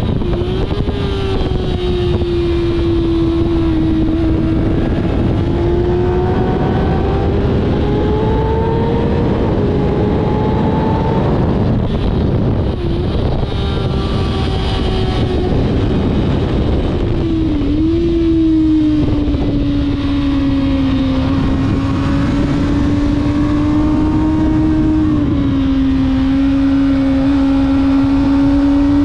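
Kawasaki ZX-6R inline-four sport bike engine at speed on track, its steady high-pitched note rising and falling through the corners, with sudden pitch drops as the rider shifts or backs off, three times. Heavy wind noise rushes over the microphone throughout.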